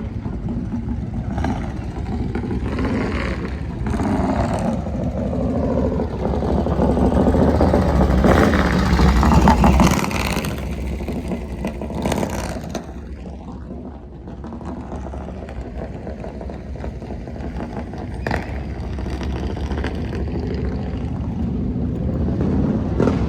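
A motorcycle engine running close by. It grows louder to a peak about ten seconds in, then falls away with a dropping pitch as it passes, leaving a steady background rumble.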